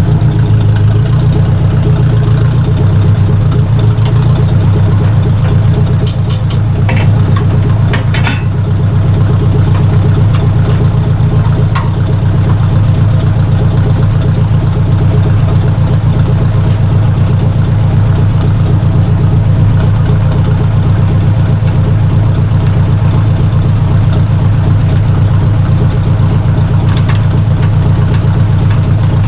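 1953 Ford Jubilee tractor's four-cylinder gasoline engine running steadily, with a few short metallic clinks about six to eight seconds in.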